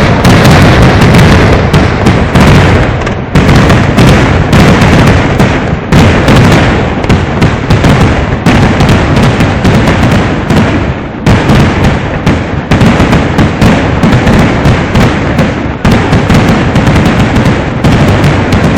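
A loud, dense barrage of fireworks exploding. The bangs follow one another so fast that they run together into a continuous rumble, with many sharper cracks standing out.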